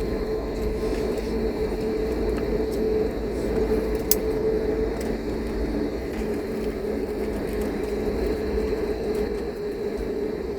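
Cabin noise of an Airbus A321neo taxiing: a steady low rumble with a steady hum from its CFM LEAP-1A engines at taxi power, and a single click about four seconds in.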